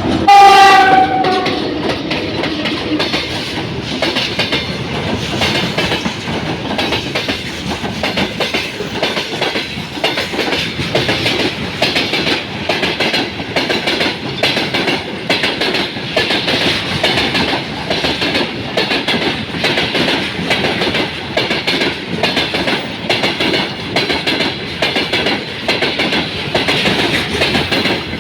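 Horn of a VL80s electric locomotive sounding briefly right at the start, its pitch dropping as the locomotive passes. Then a freight train rolls by, its wheels clicking steadily over the rail joints.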